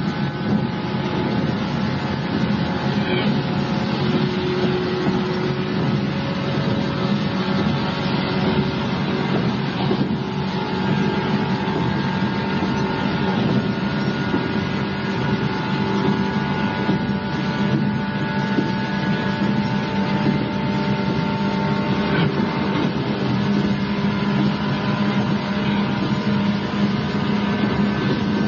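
Inside the cabin of an electric multiple-unit train running at a steady speed: continuous rumble of the wheels on the rails, with the steady whine of the traction motors and gears over it. It is an old cassette tape recording.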